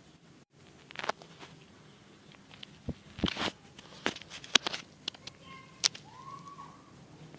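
Scattered sharp clicks and light knocks at irregular intervals, and near the end a short chirp that rises and then falls.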